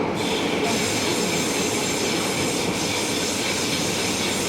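Tobu 70000 series electric train running between stations, heard from inside the passenger car: a steady noise of wheels on rails and running gear.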